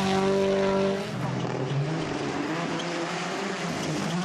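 Rally car engine running at high revs, the pitch dropping sharply about a second in, then climbing steadily and stepping up again near the end.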